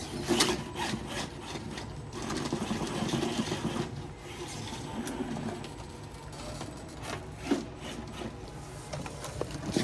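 Electric motor and gear drivetrain of a Traxxas TRX-4 RC rock crawler whirring in several throttle bursts, with tyres and chassis scraping on rock and a few sharp knocks as it crawls over the rocks.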